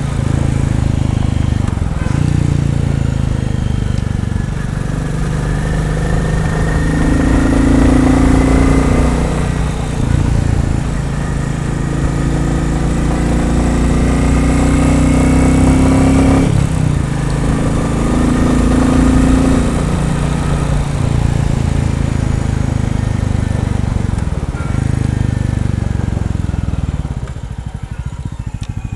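Royal Enfield Bullet 350's single-cylinder engine running while riding under load, the revs rising and falling through gear changes and dropping near the end to slower, separate beats. Under load at certain revs the owner hears a wooden rattle or buzz in time with the firing, which Bullet owners take to be normal and expect to soften as the engine runs in.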